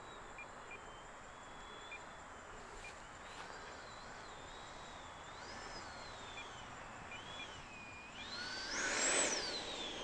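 Electric ducted fan of an FMS Rafale RC jet whining faintly, its pitch gliding up and down with the throttle on the landing approach. About nine seconds in it swells to a louder, higher peak, then drops in pitch as it passes.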